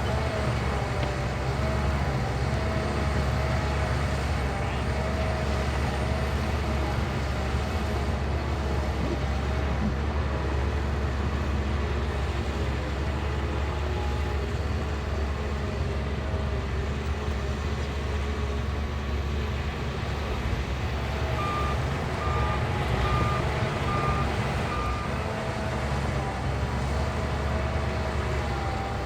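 Shantui bulldozer's diesel engine running steadily. Near the end a reversing alarm beeps about six times.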